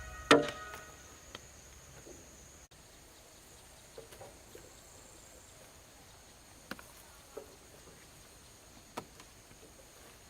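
One sharp knock with a brief ringing just after the start, then a handful of lighter, irregular knocks and taps a second or more apart, typical of working with hand tools on wood.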